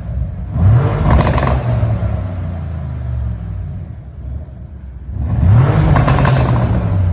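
A car's engine and exhaust revved twice: the pitch climbs about half a second in and then eases off to a quieter lull, and a second rev rises about five seconds in.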